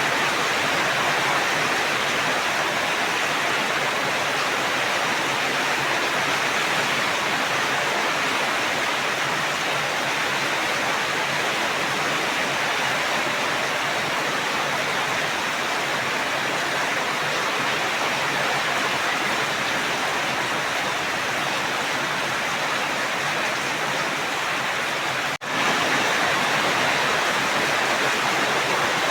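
Steady rain falling, an even hiss with no distinct drops or rhythm, broken by a split-second dropout near the end.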